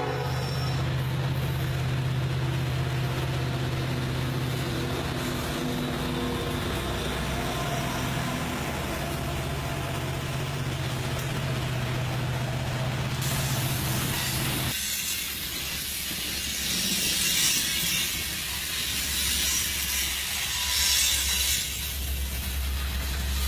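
Diesel-electric locomotives of a loaded coal train working upgrade, their engines droning steadily. About fifteen seconds in the sound changes abruptly to a deeper rumble with a hiss.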